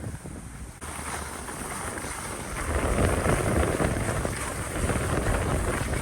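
Wind buffeting the microphone: a gusty, rumbling noise that gets louder about a second in and again around the middle.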